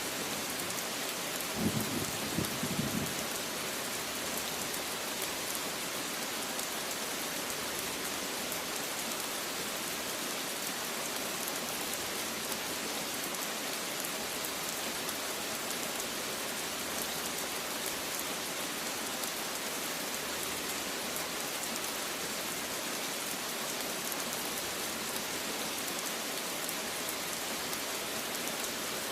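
Steady rain falling, an even hiss of drops, with a brief low rumble about two seconds in.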